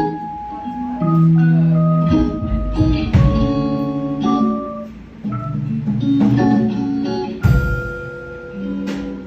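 A band playing a song's instrumental intro: bell-like, mallet-toned keyboard notes over bass, with a few drum and cymbal hits.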